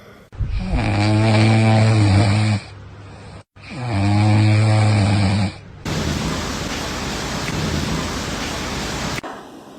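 A sleeping dog snoring: two long, pitched snores of about two seconds each, then about three seconds of steady hiss that cuts off suddenly.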